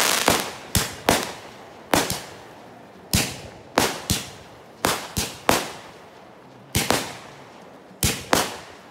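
Aerial fireworks going off in a rapid string of sharp bangs, about a dozen at uneven spacing of roughly half a second to a second, each with a short echoing tail.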